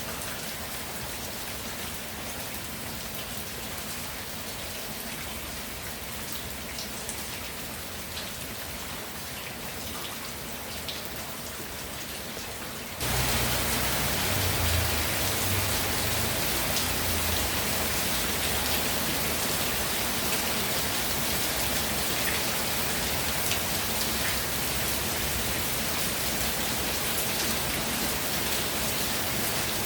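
Steady rainfall, an even hiss with scattered drop ticks. About 13 seconds in it suddenly becomes louder and fuller, with a deeper rumble underneath, and stays that way.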